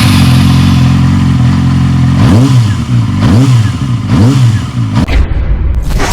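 Motorcycle engine idling, then revved in three short blips about a second apart, each rising and falling in pitch. About five seconds in it cuts to a rougher, noisier engine sound.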